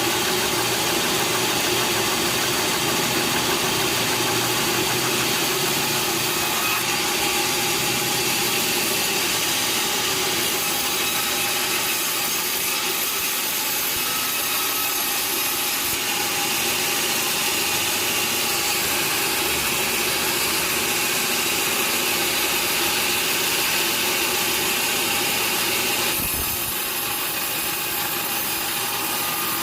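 Sawmill machinery running steadily, a continuous engine-driven noise. Near the end the sound drops slightly and changes in tone.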